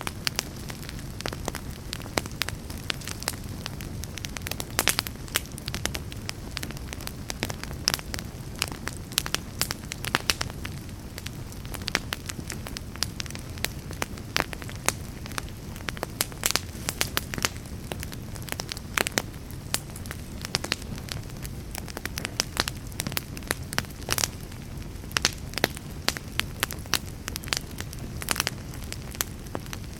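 Fire crackling in a fireplace: frequent irregular sharp pops and snaps over a steady low rumble of the flames.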